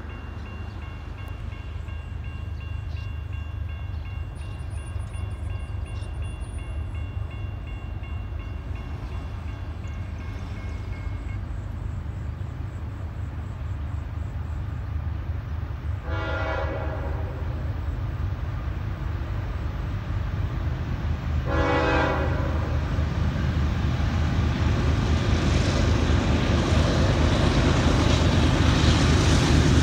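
A loaded CSX coal train's diesel locomotives, led by a GE ES44AH, work hard up a grade, their low rumble growing steadily louder as they approach. A crossing bell rings through the first third. The Nathan K5HL air horn sounds two short blasts past the middle, sounded in a way the uploader says is not the proper grade-crossing pattern.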